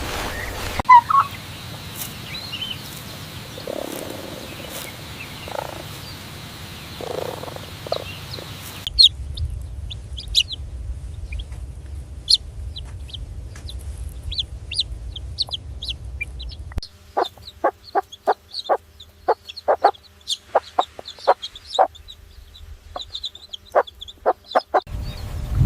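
Chickens clucking across a few spliced clips: high, short peeps through the middle, then a quick run of short clucks, about two a second, in the last third.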